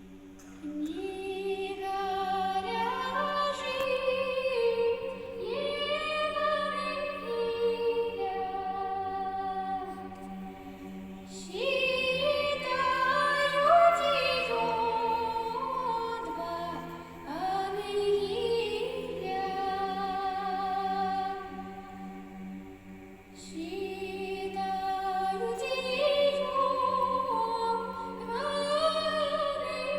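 A female soloist sings a Nekrasov Cossack spiritual verse with vibrato over a men's choir holding a low sustained drone, unaccompanied. Her phrases break off and start again about every ten seconds while the drone continues.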